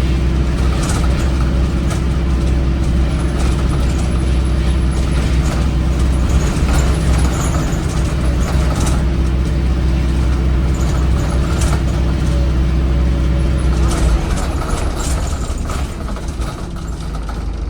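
Alexander Dennis Enviro 400 hybrid bus's Cummins ISBe 4.5-litre four-cylinder diesel running at full throttle up an incline: a steady, heavy drone with light rattles and clicks over it. The engine eases off and the sound drops somewhat near the end.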